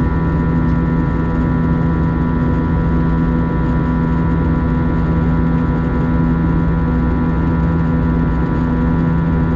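Airbus A321 cabin noise: the jet engines and airflow give a steady drone with a constant hum, heard from inside the passenger cabin.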